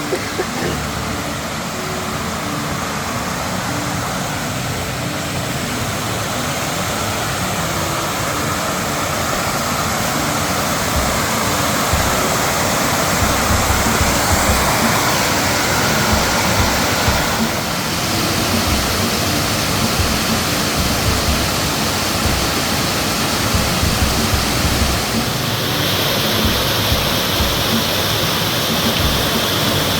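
Loud, steady rush of a mountain waterfall or cascading creek, with the water's sound changing abruptly twice.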